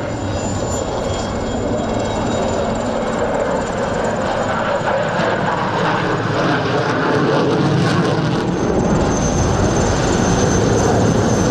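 Jet noise from F-16 Fighting Falcon fighters, a broad rush that grows steadily louder, with a thin high whine over it.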